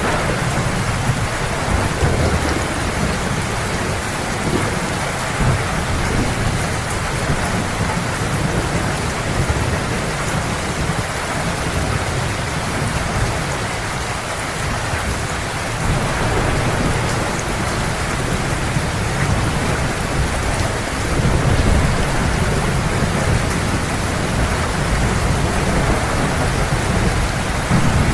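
Heavy rain pouring steadily, with low thunder rumbling underneath that swells about three-quarters of the way through.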